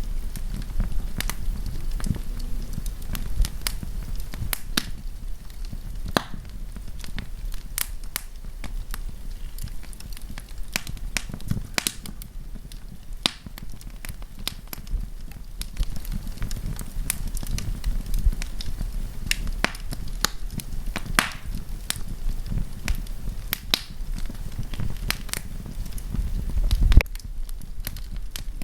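Wood campfire crackling, with irregular sharp pops and snaps over a low rumble of burning. Near the end there is one louder low thump.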